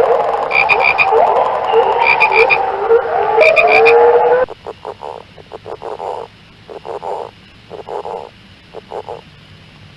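A loud frog chorus of many overlapping short rising calls, with brief high pulsed trills three times. About halfway through it cuts abruptly to a quieter recording of frogs croaking in separate bursts of rapid pulses.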